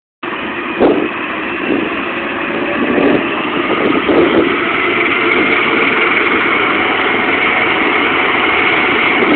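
Helicopter running steadily, with engine noise and a high whine that grows stronger about halfway through, and a few short low swells in the first few seconds.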